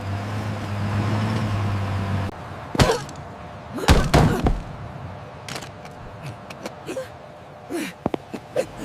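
A vehicle engine running steadily and cutting off about two seconds in, followed by two loud slams, like car doors, and a few lighter knocks.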